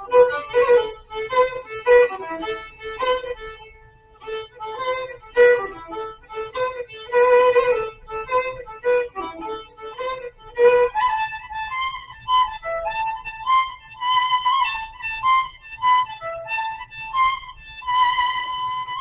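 Violin playing a fast Celtic-style fiddle tune in quick, short notes. About halfway through, the melody moves up an octave, and it closes on a held high note near the end.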